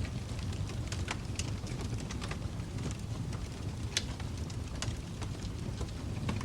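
Wood fire in a fireplace crackling: irregular sharp snaps over a steady low rumble, with one louder pop about four seconds in.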